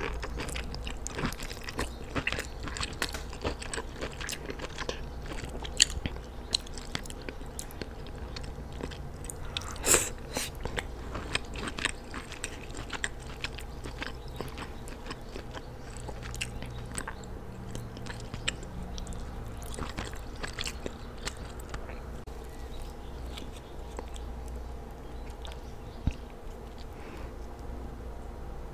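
Close-miked chewing of sauce-coated seafood (shrimp and lobster meat): a steady run of wet mouth clicks and bites. The sharpest, loudest click comes about ten seconds in.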